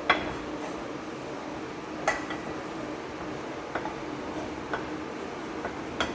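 Kitchen utensils clinking against dishes: about five sharp clinks with a short ring, spread out over several seconds, over a steady faint hum.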